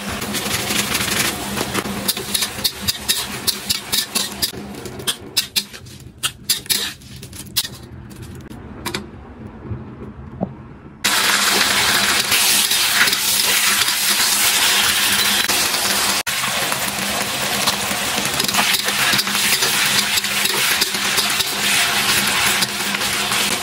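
Metal spatula clinking and scraping in a wok as shrimp are stir-fried over a light sizzle that dies away. About eleven seconds in, raw chicken pieces start frying in hot oil with a sudden loud, steady sizzle, the spatula scraping the wok as they are stirred.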